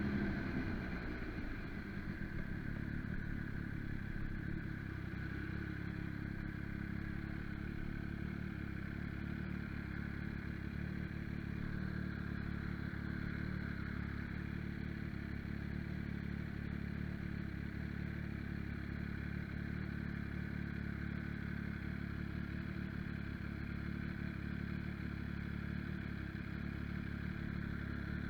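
MV Agusta Brutale motorcycle engine running steadily at low revs, after its revs fall away in the first couple of seconds.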